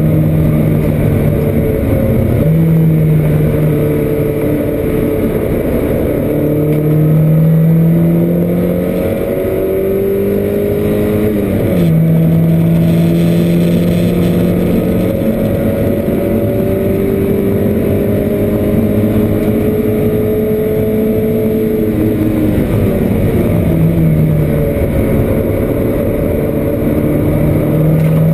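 Porsche 924 race car's four-cylinder engine running hard, heard from inside the cabin, its note climbing and then falling away several times as it is driven through the gears and corners.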